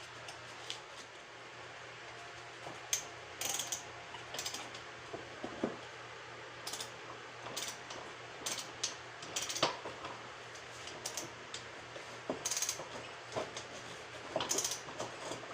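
Ratchet wrench clicking in short runs, with light metal clinks, as a lawn mower's new blade nut is tightened down.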